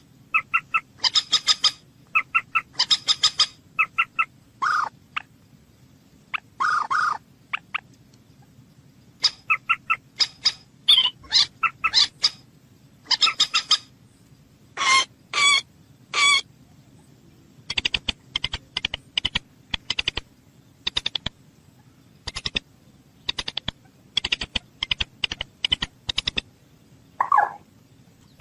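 A bird giving bursts of short, harsh, repeated calls, a few longer lower notes among them, then a fast run of sharp clicking notes in the second half.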